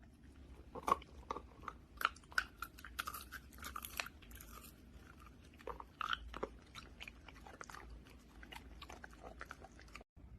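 A dog chewing a hard handmade beef treat: irregular crisp crunches and bites, busiest in the first half.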